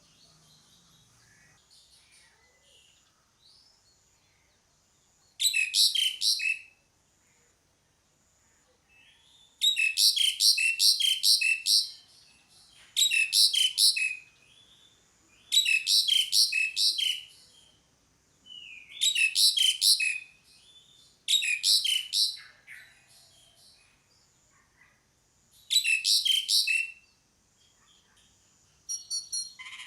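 Asian pied starling (jalak suren) calling in seven bursts of rapid, repeated high notes, each burst lasting one to two seconds, with short quiet gaps between them.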